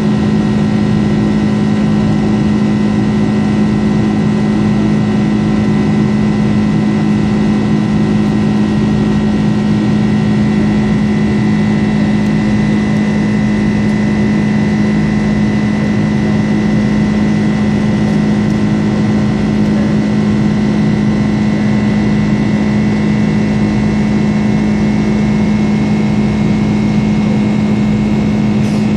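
Boeing 747-400 jet engines and airflow heard inside the passenger cabin: a loud, steady drone with a strong low hum and fainter higher tones, unchanging throughout.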